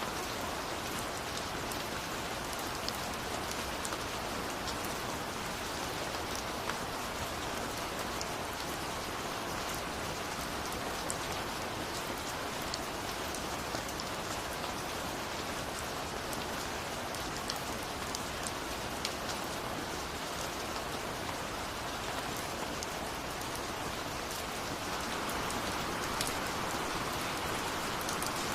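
Steady rain falling, a dense even hiss with many small drop ticks on a surface, swelling a little near the end.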